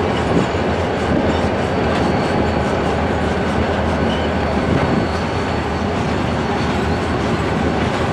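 Open hopper cars of a Wheeling & Lake Erie stone train rolling past: a steady rumble and rattle of steel wheels on the rails.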